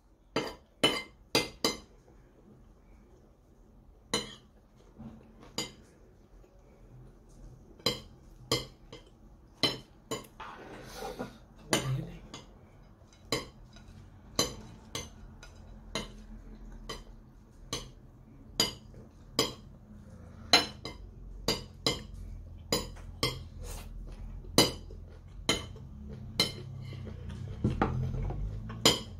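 Crunchy crisp snack being bitten and chewed: a string of sharp crunches, about one or two a second, with a short rustle about ten seconds in.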